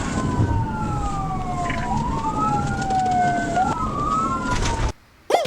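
Police car sirens wailing, two overlapping slow rising-and-falling wails over steady road and engine rumble. The sound cuts off suddenly near the end, followed by a brief sweep.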